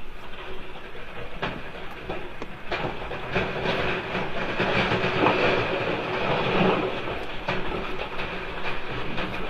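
Earthquake shaking: a continuous rumble with rattling and clattering knocks, swelling to its loudest about midway.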